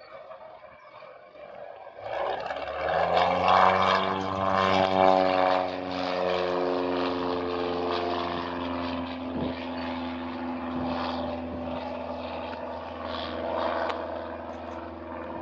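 A banner-tow propeller plane's engine comes in about two seconds in during a low pass to snag a banner. Its pitch falls as it goes by, then settles into a steady drone.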